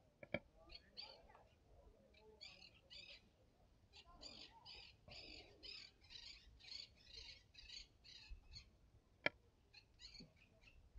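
Small birds twittering: a faint, quick series of short high chirps, about three a second, thickest in the second half. Two sharp clicks come just after the start and again about nine seconds in.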